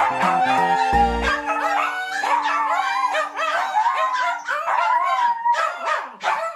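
Maltese puppies yipping and whining in many short, high calls that bend up and down in pitch, over background music.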